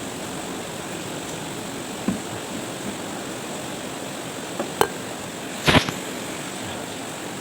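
A few short knocks and clinks of a plate and utensils being handled, the loudest about six seconds in, over a steady background hiss.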